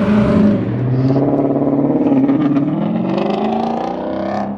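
A car engine revving hard, its pitch dipping and then climbing steeply near the end, with quick crackles from the exhaust as it climbs.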